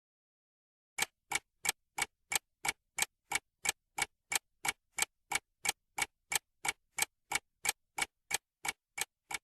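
Ticking clock sound effect: evenly spaced sharp ticks, about three a second, starting about a second in, typical of a countdown timer while the viewer guesses.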